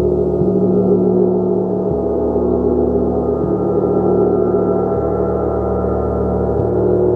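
Gong being played continuously: a loud, dense, sustained ring of many overlapping tones. The lowest tones shift about every second and a half.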